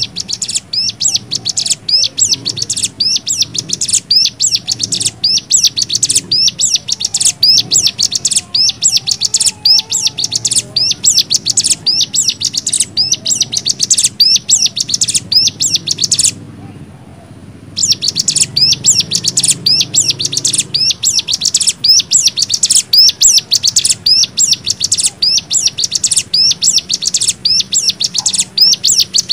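Cigun (ciblek gunung) singing its rapid 'nembak' song: fast, high, chattering notes repeated without pause. The song breaks off for about a second and a half, then resumes.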